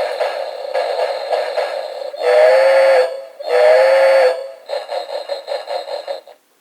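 Novelty steam-train telephone ringing with a recorded steam locomotive effect through its small speaker: steady rhythmic chuffing, two long whistle toots in the middle, then more chuffing that stops shortly before the end.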